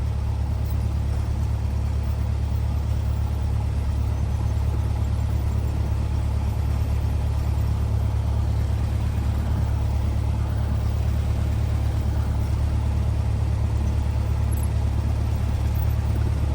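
Cessna 172R's four-cylinder Lycoming engine and propeller running steadily at low power, a constant low drone with no change in pitch or level.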